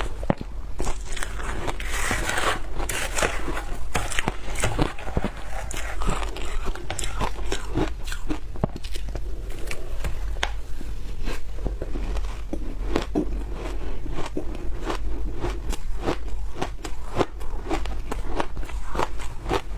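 Close-miked biting and chewing of frozen food, with many irregular crisp crunches and cracks.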